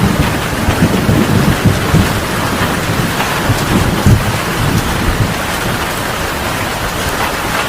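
Heavy rain pouring steadily, with a rumble of thunder that fades out about halfway through.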